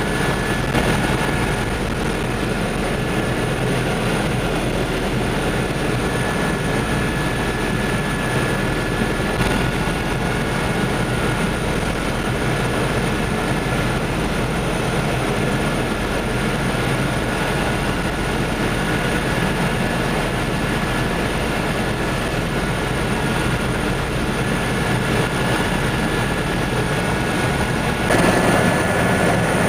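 Helicopter's rotor and turbine noise heard from on board in flight: a steady, loud drone with a faint whine through it, growing slightly louder near the end.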